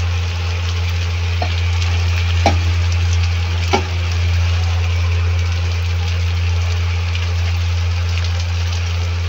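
Onions and tomatoes sizzling in a pan over a strong steady low hum. A utensil clinks sharply against the pan twice, about two and a half and nearly four seconds in.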